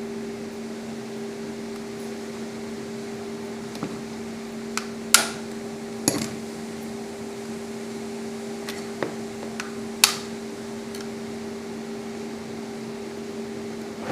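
A small electric motor hums steadily with two constant tones. Several sharp clicks and knocks sound between about four and ten seconds in.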